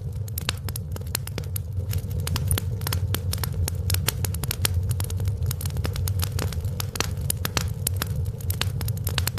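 Wood fire burning in a fireplace: a steady low rumble of the flames with dense, irregular sharp crackles and pops throughout.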